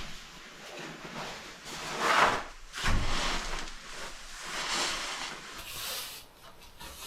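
A series of irregular swishing and rubbing noises, several separate swells of a fraction of a second each, loudest about two and three seconds in.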